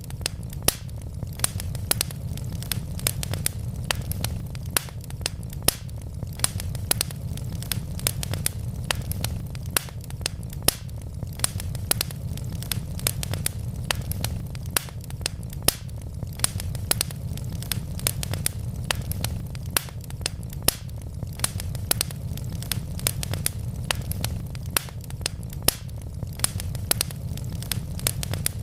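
Wood fire burning with dense crackling: many sharp pops and snaps, several a second, over a steady low rumble of the flames.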